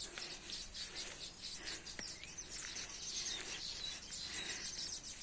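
Small birds chirping and twittering in the background: many short, high chirps in quick succession. There is a single faint click about two seconds in.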